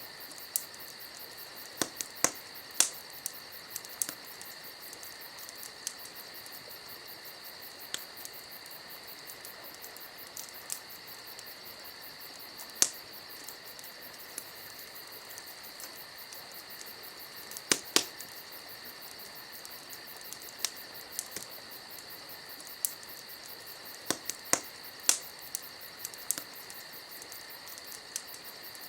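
Campfire crackling, with sharp irregular pops every second or few, over a steady chorus of crickets.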